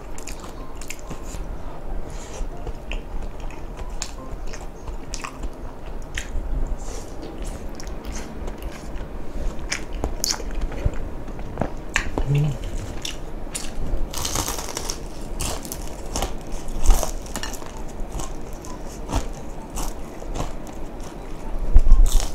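Close-up eating sounds: chewing and biting of spicy tteokbokki rice cakes and deep-fried chicken skin, with many small wet clicks. A burst of crunching comes about fourteen seconds in, and a couple of louder knocks near the end.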